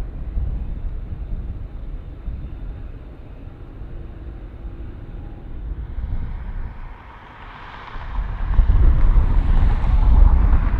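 Jet airliner engines growing louder as the aircraft passes close, loud from about eight seconds in, over wind buffeting the microphone.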